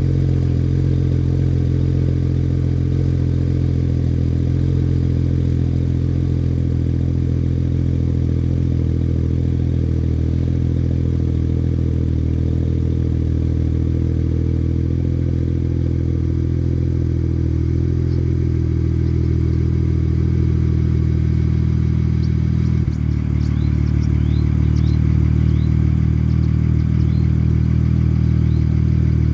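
BMW 335i turbocharged straight-six idling steadily through an ETS aftermarket exhaust, warming up after a cold start. The idle note changes abruptly about three-quarters of the way through.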